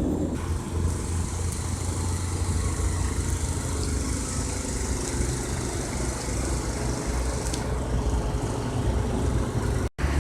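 Steady low motor hum with a hiss, no speech; the sound drops out completely for a moment near the end.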